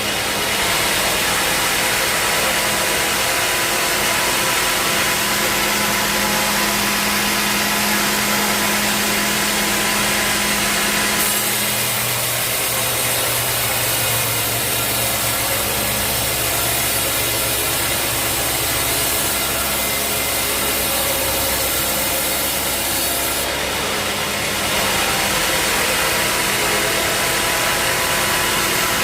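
Bandsaw mill sawing through a teak log, the blade cutting and the mill's motor running steadily. The sound shifts abruptly about 11 seconds in and again near 24 seconds.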